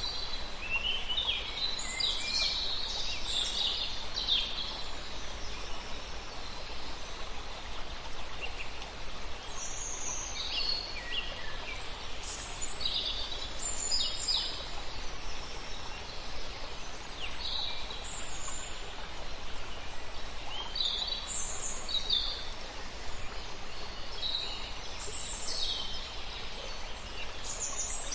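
Several songbirds chirping and calling, with short high calls coming at irregular intervals over a steady background hiss.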